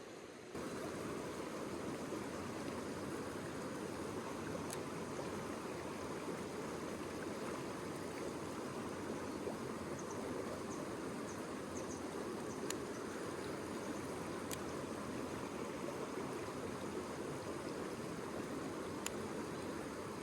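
Mountain stream water rushing steadily, stepping up in level about half a second in, with a few faint ticks.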